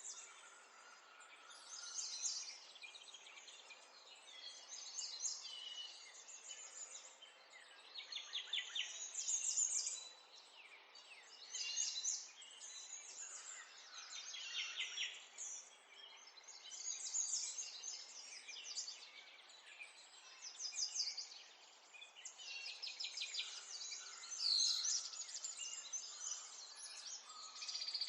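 Several songbirds singing together, with overlapping high trills and twittering chirps in bursts every second or two over a faint steady background.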